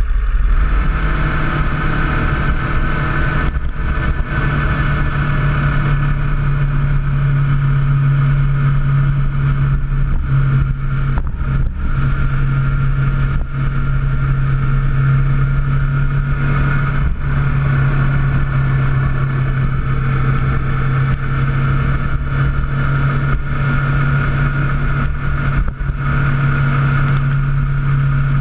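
Motorcycle engine running steadily at cruising speed, with a few brief dips in pitch and level.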